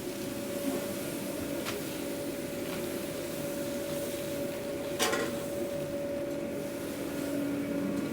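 Steady hum of a food truck's kitchen machinery, with a few light clicks and knocks, the sharpest about five seconds in.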